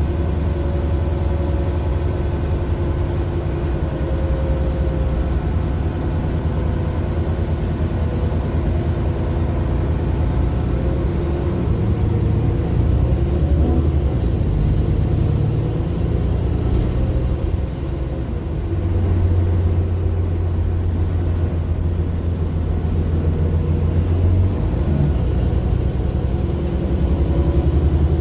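Mercedes-Benz Citaro LE city bus's OM 457 hLA six-cylinder diesel running under way, its low note stepping up and down as the bus drives, with a fainter whine above it.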